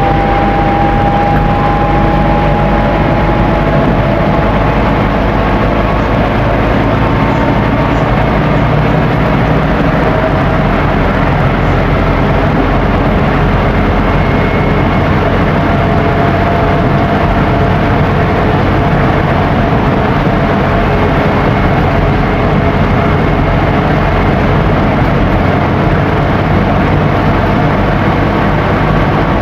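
Scania N270UD OmniDekka double-decker bus running at speed: steady diesel engine and road noise, with a faint whine that glides slowly in pitch. The low engine note shifts about ten seconds in.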